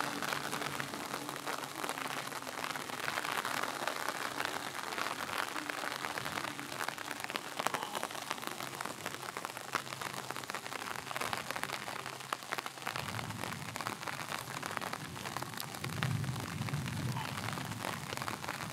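Steady rain falling on a camp tarp and the forest around it, a constant hiss of many separate drop hits. A low rumble comes in about two-thirds of the way through and grows louder near the end.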